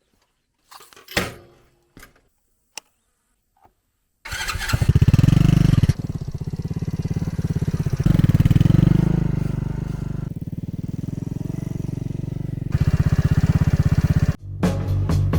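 Motorcycle engine running, a dense, rapid run of firing pulses that rises and falls as it revs, after a few faint clicks and knocks. Near the end it cuts off suddenly and music with a beat comes in.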